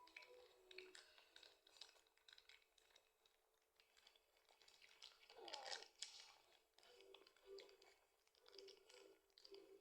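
Faint crinkling of a plastic wrapper and small clicks of handling and eating, with a louder crinkle about five and a half seconds in.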